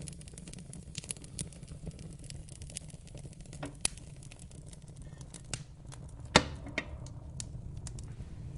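Fire in a fireplace crackling, with scattered sharp pops over a steady low rumble. The loudest pop comes about two-thirds of the way through.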